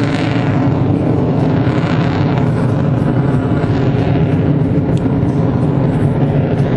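Aircraft engine running: a steady, loud rumble with an even hum.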